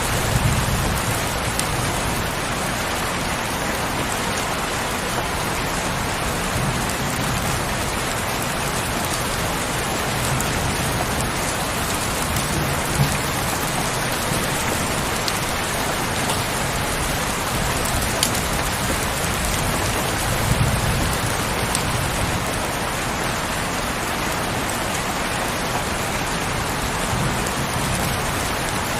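Heavy rain falling steadily, with a few brief low rumbles underneath.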